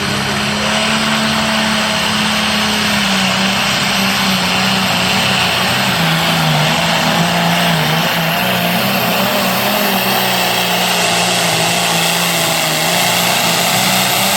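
Turbocharged diesel tractor engine at full throttle pulling a weighted sled, running hard and steady, its pitch sagging in the middle of the pull as the load builds and partly recovering toward the end.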